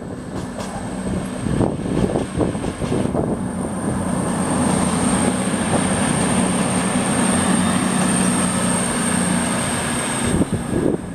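A train running through the station, with a steady low drone and a thin high-pitched whine, loudest through the middle and easing off near the end.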